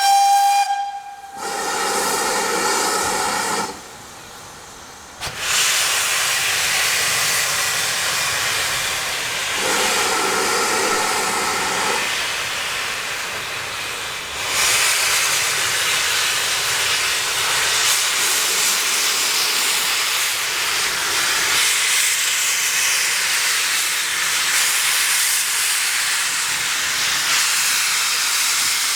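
Steam locomotive whistle giving a short, high blast, followed by two longer, lower tones, one right after it and one about ten seconds in. Between and after them, steam hisses loudly and steadily from the Great Western tank engine, growing stronger about halfway through.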